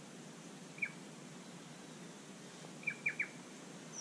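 A bird calling: one short, high chirp about a second in, then a quick run of three chirps near the end, over a faint steady background hiss.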